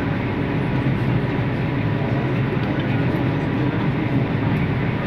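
Steady running noise inside a Vande Bharat Express electric train coach at speed: an even, unbroken rumble of the train on the rails.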